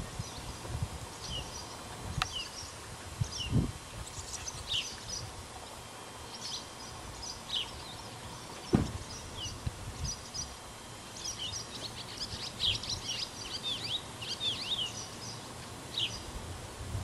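Small birds chirping outdoors: many short, quick falling chirps, busiest in the second half, over a low rumble. A few dull thumps stand out, the loudest about nine seconds in.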